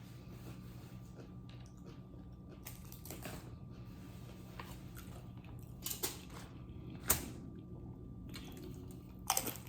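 Close-miked eating: chewing and wet mouth sounds, with a few short sharp crackles and clicks, the loudest about seven seconds in.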